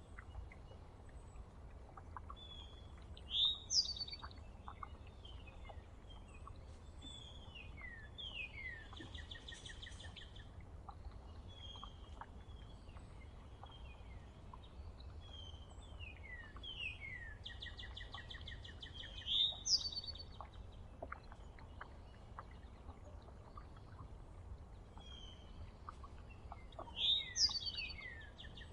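Songbirds singing and chirping. One song repeats about four times, roughly every eight seconds: a few sharp, falling whistled notes ending in a rapid trill. Short chirps and faint ticks fall between the songs over a low, steady background rumble.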